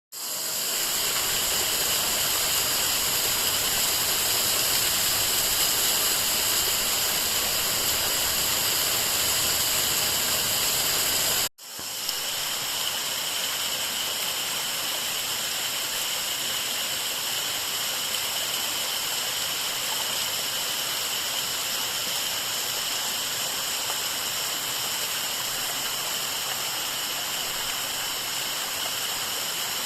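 Waterfall rushing steadily. About a third of the way in it cuts out for a moment and comes back slightly quieter, as at a change from one falls to another.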